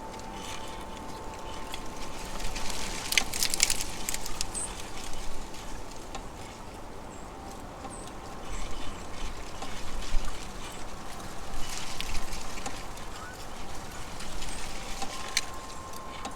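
Outdoor backyard ambience: a steady hiss with a faint steady tone, scattered sharp clicks and crackles, densest about three seconds in and again near the end, and a few brief high chirps.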